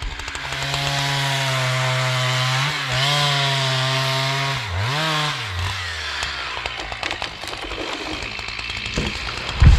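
Chainsaw running at a steady high speed; about five seconds in, its pitch dips sharply and recovers, then it carries on more faintly. A heavy thump comes near the end.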